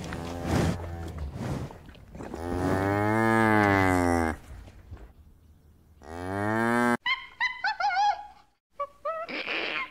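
Cows mooing: a long, low moo about three seconds in, and another that cuts off abruptly about seven seconds in. After that, a run of short, high, wavering squeaky calls.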